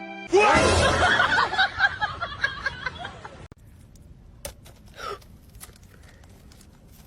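A loud burst of a person's laughter lasting about three seconds. It cuts off abruptly to quiet with a few clicks and a short high call that slides down in pitch.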